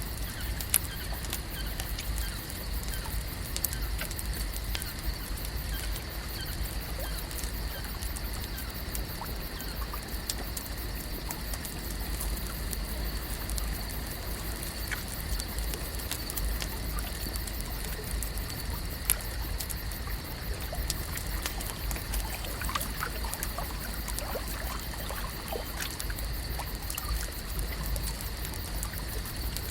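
Lakeside ambience: gentle water lapping and trickling over a steady low rumble, with a constant high-pitched hum and scattered small clicks.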